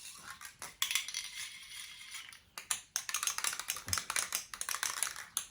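Aerosol can of high-heat spray paint: a short hiss of spraying, then rapid rattling clicks from about three seconds in, like the can's mixing ball being shaken.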